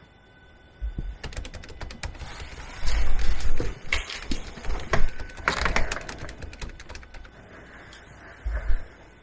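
Window blinds being pulled open, the slats rattling in quick, dense clicks for several seconds, with dull low thumps of handling underneath.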